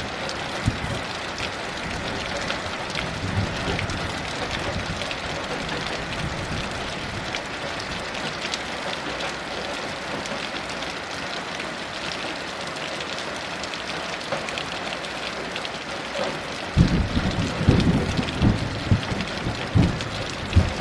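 Heavy rain falling steadily. A low rumble of thunder comes in about 17 seconds in and swells several times toward the end.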